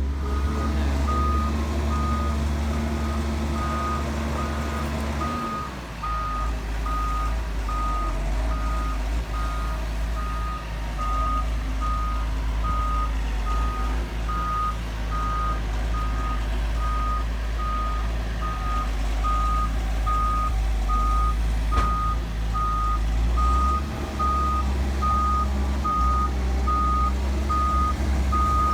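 An excavator's travel alarm beeping about twice a second over its steady diesel engine. The engine note changes about six seconds in and changes back near the end.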